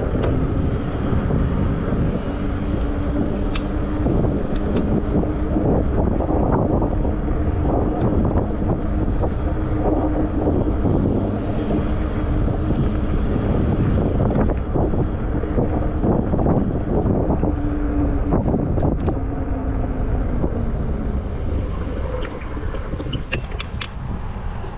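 Wind buffeting a handlebar-mounted camera microphone while riding a 20-inch fat-tire e-bike, over a steady low rumble of the fat tires on the path. A steady hum runs through most of it and fades out near the end, with scattered small knocks from bumps.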